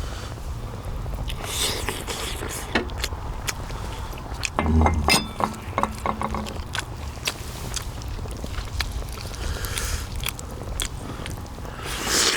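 Someone eating pork bone soup: chewing and biting meat off the bones, with scattered sharp clicks and taps and a louder clatter about five seconds in.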